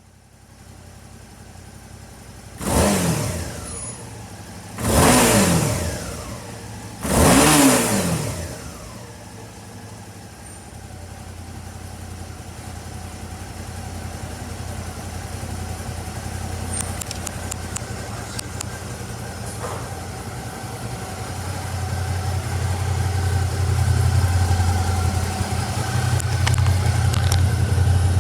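Suzuki V-Strom 650XT's 645 cc V-twin engine revved three times in quick blips, each rising and falling back, then settling to a steady idle that grows louder near the end.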